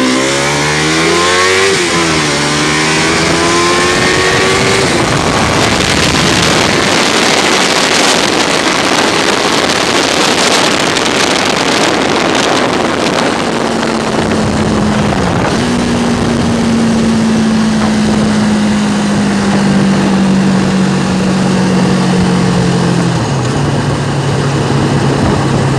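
Honda CBR600 inline-four engine in a buggy accelerating hard, its pitch rising and then dropping at two gear changes. An even rushing noise follows at speed, then a steady engine note that slowly falls in pitch and steps down once near the end.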